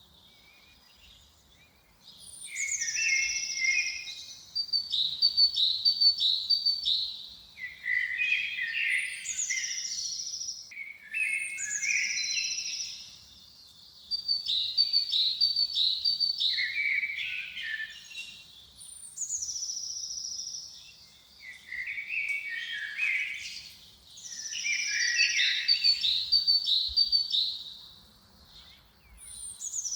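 A songbird sings the same short phrase over and over, every three to four seconds. Each phrase opens with a high, falling whistle and breaks into a quick run of trilled notes. The singing starts about two seconds in.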